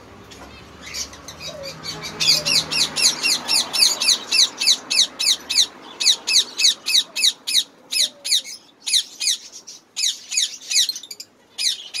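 Small caged aviary birds chirping in a quick, even run of short sharp high calls, about four a second, starting about two seconds in and breaking off briefly near the end.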